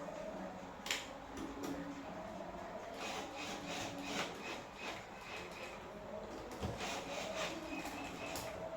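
Irregular clicks and scraping, the sound of hand work on parts.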